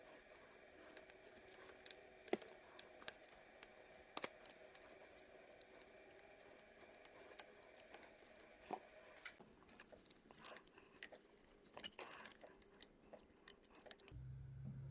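Faint, scattered clicks and light taps of hand tools and engine parts being handled, in sped-up footage. A steady low hum comes in suddenly near the end.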